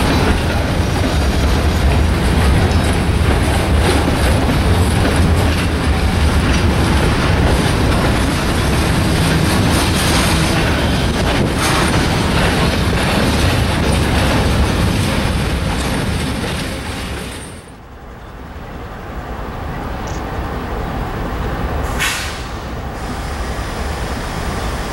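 Freight train of steel gondola cars rolling past, a loud steady deep rumble of wheels on rail. About 17 seconds in it breaks off and gives way to quieter steady background noise, with a brief hiss about 22 seconds in.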